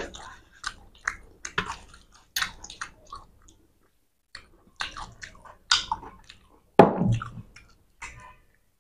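Wet chewing and lip-smacking of people eating rice and fish curry, heard as a string of short, irregular smacks and clicks, the loudest about two-thirds of the way through.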